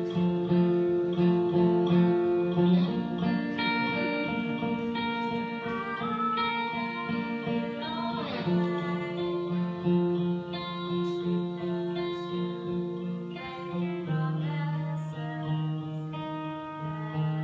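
Guitar music: sustained chords held for a few seconds each before changing, with a sliding sweep in pitch about eight seconds in.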